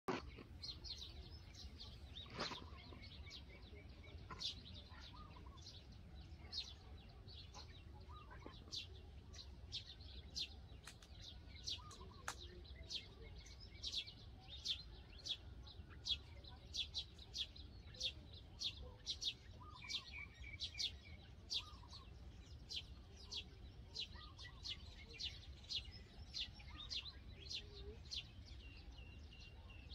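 A small bird chirping over and over: short, sharp, high chirps coming roughly every half second to a second, over a low steady rumble.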